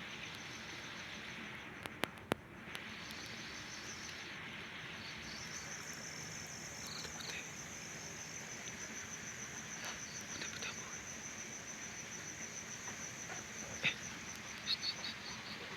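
An insect trilling at night, a steady, rapidly pulsed high-pitched song that grows stronger a few seconds in and stops near the end, over a background hiss. A couple of sharp clicks sound about two seconds in and again near the end.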